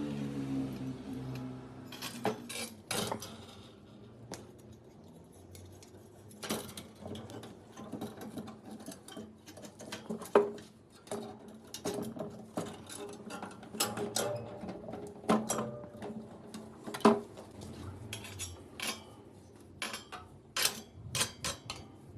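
Irregular clinks and knocks of hard objects being handled and set down. A low hum fades out over the first couple of seconds.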